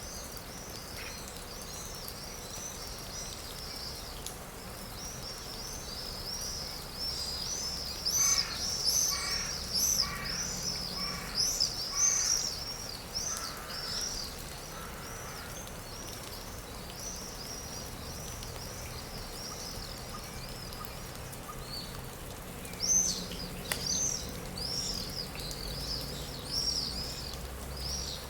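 Birds singing: a near-continuous run of quick, high chirping notes, with a second bird's louder series of about five calls roughly eight to twelve seconds in and another burst of louder notes near the end.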